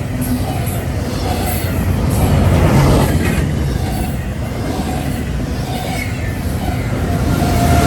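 Train rolling past, its wheels rumbling steadily on the rails, swelling a little about three seconds in and again near the end.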